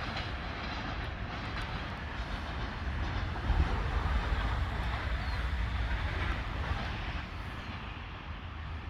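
Freight train rolling along the track: a steady low rumble and rattle of the wagons, loudest about three and a half seconds in and easing off toward the end.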